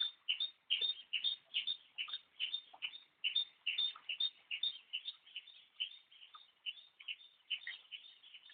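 Songbird singing a fast series of short, high, sweet notes repeated at about three a second.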